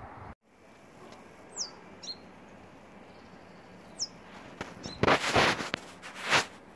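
Small bird chirping, a few short, high, downward-sliding chirps spaced out over several seconds. About five seconds in come several loud rushes of noise, louder than the chirps.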